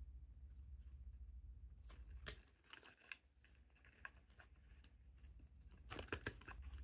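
A parrot's beak cracking and tearing at a chew-toy block in scattered snaps, the sharpest about two seconds in and a quick cluster near the end.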